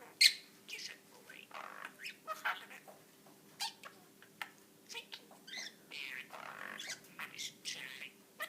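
Pet budgerigar chattering and warbling: a busy run of short chirps, squeaks and clicks, with one sharp, loud chirp just after the start.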